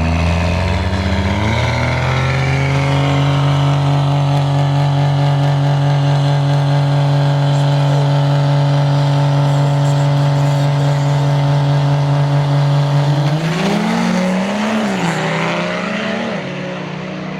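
Drag truck's engine revving up, then holding steady at high revs for about ten seconds. Near the end the revs rise and fall, with a rougher edge, before easing off.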